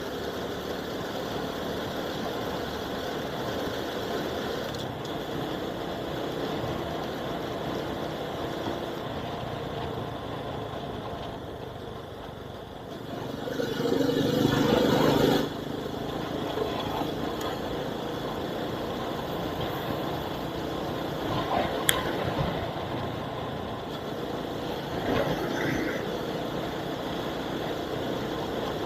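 Vehicle engine and road noise picked up by an action camera's built-in microphone while driving, steady throughout, with a louder swell lasting about two seconds around the middle and a single sharp click about two-thirds of the way through.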